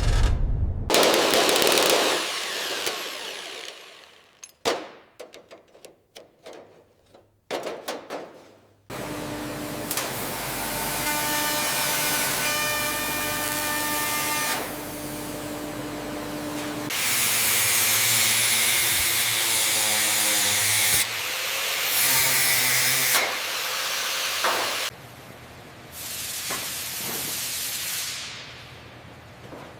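A string of workshop repair sounds that change abruptly every few seconds. A burst of hiss comes first, then a scatter of sharp clicks and knocks. From about nine seconds, several stretches of steady power-tool noise follow, the first with a steady whine in it.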